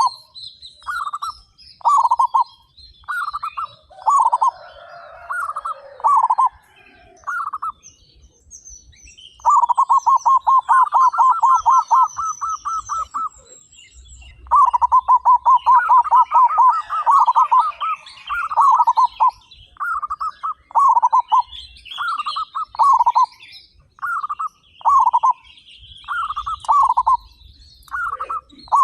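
Zebra doves (perkutut) cooing: short cooing phrases repeat about once a second, broken in the middle by two long, rapid stuttering trills. Faint high chirping of smaller birds runs above them.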